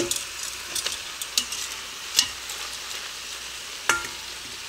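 Onions and mushrooms sizzling in the stainless steel inner pot of an Instant Pot on the sauté setting, a steady high hiss. Metal tongs clink against a steel bowl and the pot as chicken pieces are moved in, with the sharpest clinks about two seconds in and near four seconds.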